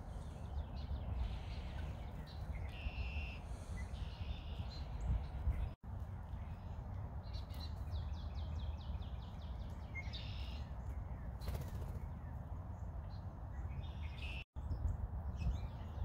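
Wild songbirds giving short, scattered calls over a steady low outdoor rumble, with a quick run of rapid repeated notes a little before the middle. The sound drops out completely for an instant twice.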